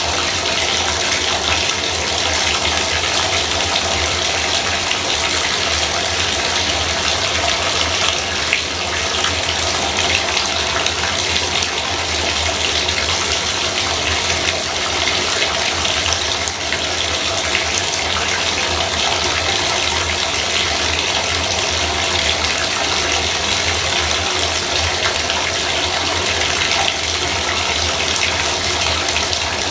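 Bathtub faucet running steadily, water pouring in a constant stream.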